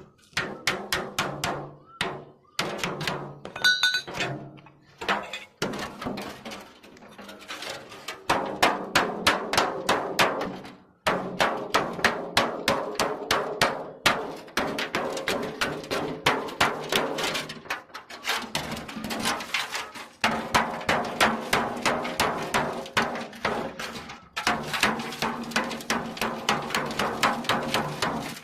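Hammer beating on metal in fast runs of several blows a second, each blow ringing, with short pauses between the runs.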